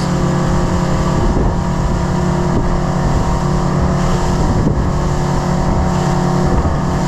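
Outboard motor running flat out on a boat planing at over 30 knots: a steady engine drone under a loud rush of wind and water.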